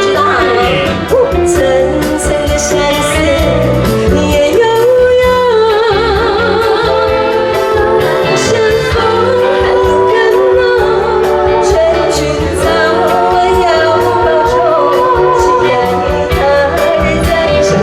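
Live pop music: a singer holding wavering, vibrato-laden notes over a band backing with a steady beat.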